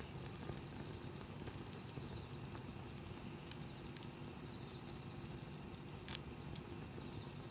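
Wood campfire burning with faint scattered crackles and one sharp pop about six seconds in, over a low steady rustle. A high, thin insect call comes in repeated phrases about two seconds long with short gaps between them.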